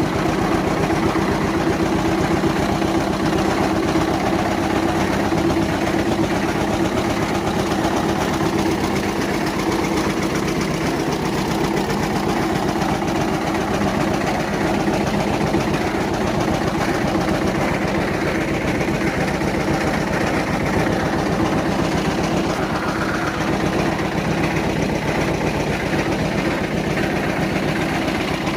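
1955 Eicher ED 22 tractor's diesel engine running steadily at idle with an even, unchanging beat.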